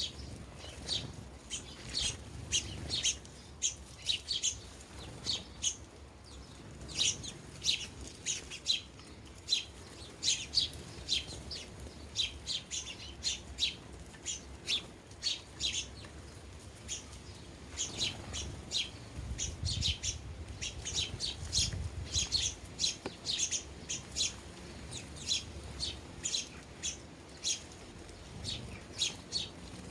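Sparrows chirping: a busy run of short, sharp chirps, several a second, with brief pauses between bursts.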